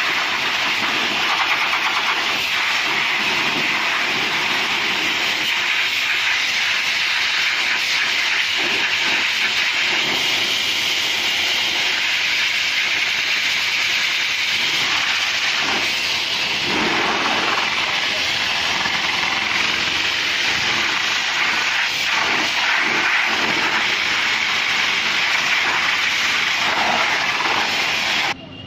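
High-pressure washer jet spraying water onto a car: a loud, steady hiss that cuts off abruptly near the end.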